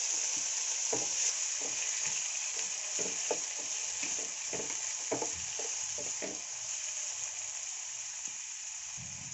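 Chicken pieces and chopped onions sizzling in oil in a nonstick frying pan, with a wooden spatula scraping and knocking against the pan over the first six seconds or so, then only the steady sizzle.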